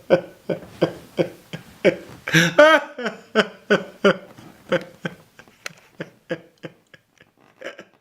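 A man's voice in short, rhythmic gasping sobs, about three a second, with a wavering wail about two and a half seconds in; the gasps grow weaker and further apart toward the end.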